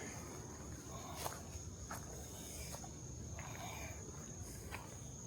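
Footsteps on a rocky trail, a step roughly every second, over a steady high-pitched drone of crickets or other insects.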